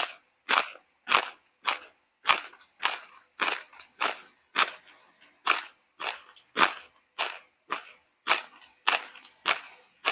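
A person chewing crunchy food close to the microphone, one crisp crunch about every half second in an even rhythm.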